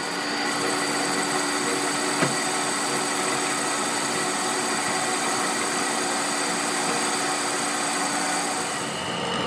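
A workshop machine running steadily, with a single sharp click about two seconds in.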